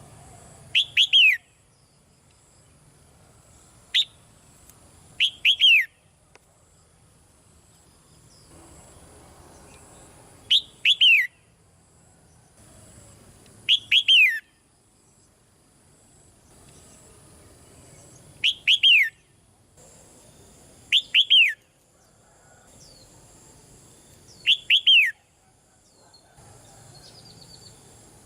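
Red-whiskered bulbul calling in short, loud bursts of a few quick falling notes, repeated every two to four seconds.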